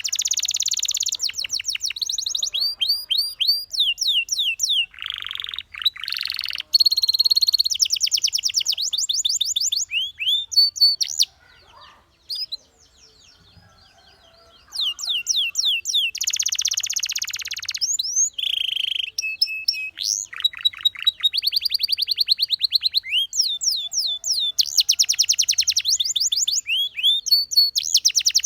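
Domestic canary singing: fast rolling trills of rapidly repeated notes mixed with rising and falling whistled notes, broken by a pause of about three seconds midway before the song resumes.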